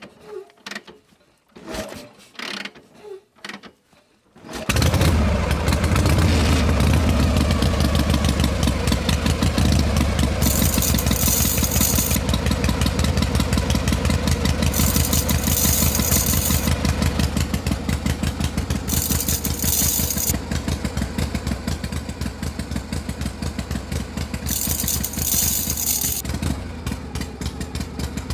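A few light knocks, then about four and a half seconds in an engine starts abruptly and runs steadily with a fast, even chug and a low hum. A brighter hissing layer comes and goes four times.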